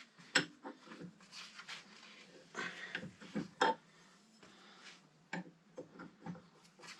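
Hand tools clicking and knocking against a tight handlebar riser bolt as it is worked loose, in short separate strokes.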